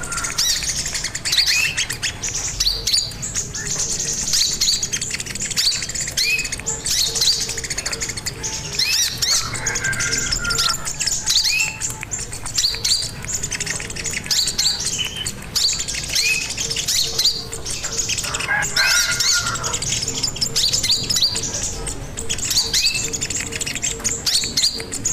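Sogon bird song: a busy run of short, high chirps repeated over and over, with a few lower, fuller phrases mixed in.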